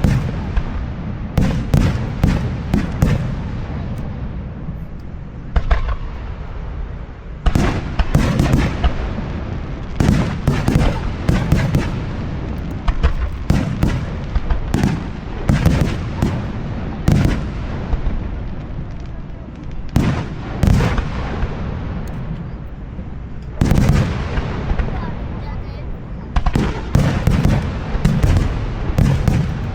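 Aerial firework shells bursting overhead in quick clusters: many sharp bangs through the whole stretch, each followed by a low rolling rumble.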